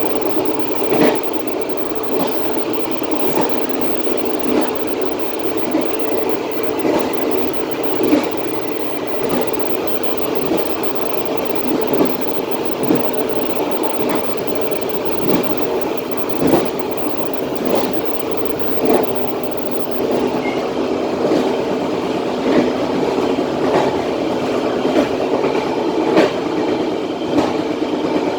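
Passenger train running along the track, heard from the rear of the last carriage: a steady rail rumble with sharp wheel clicks over rail joints about once every second or so.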